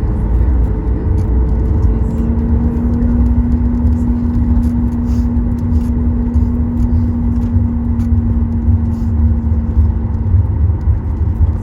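Cabin noise of a Boeing 737 MAX 9 taxiing: a steady low rumble from the idling CFM LEAP-1B engines and the wheels rolling on the taxiway. A steady hum sets in about two seconds in and fades out near the end.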